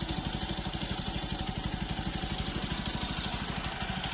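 Motorcycle engine running steadily, with a rapid, even low pulse.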